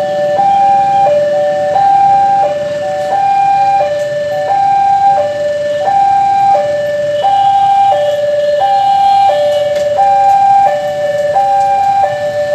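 Railway level-crossing warning alarm sounding a steady electronic two-note hi-lo tone, the higher and lower notes alternating evenly, each held for under a second.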